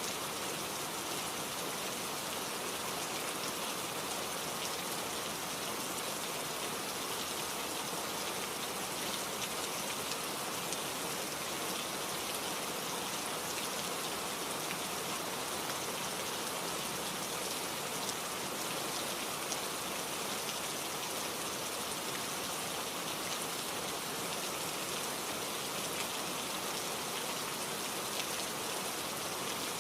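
Steady rain falling, an even hiss of many drops with fine patter in it and no change in intensity.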